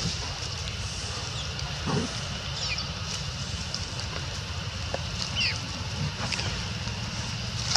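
Steady background noise with a low hum and a few faint, short, high-pitched chirps falling in pitch, one near three seconds in and another about five and a half seconds in.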